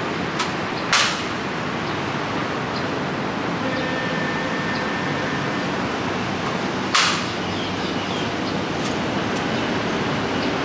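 Steady rain hiss, broken by two short sharp claps, one about a second in and one about seven seconds in.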